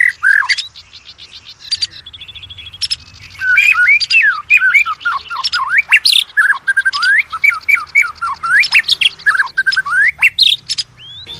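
Oriental magpie-robin singing a fast, varied song of sharp rising and falling whistled notes mixed with rapid buzzy trills and harsh notes. A quieter passage of quick ticking notes comes about a second in, and the song breaks off near the end.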